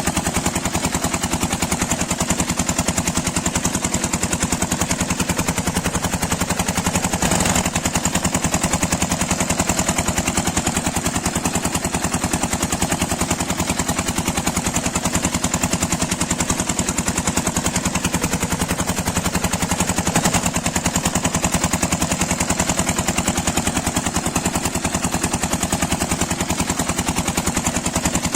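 Miniature diesel engine running steadily, its firing strokes a fast, even stream of sharp knocks.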